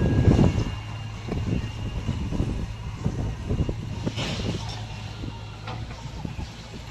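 Heavy diesel engine running steadily with a low hum, louder in the first half second, with scattered short knocks over it.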